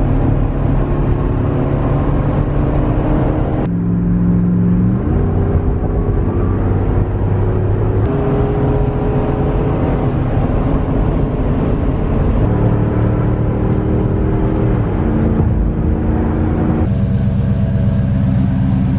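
2007 Dodge Durango's V8 engine and exhaust running, mostly steady, with a short rising rev about five seconds in and several abrupt shifts in engine speed and tone.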